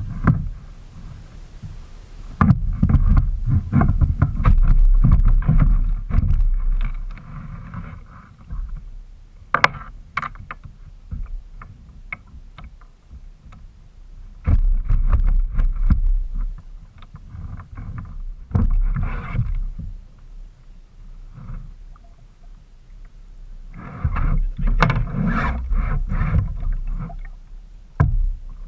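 Sounds of a kayak on the water, such as paddling and water moving against the hull, coming in uneven spells with quieter stretches between them and a few sharp knocks.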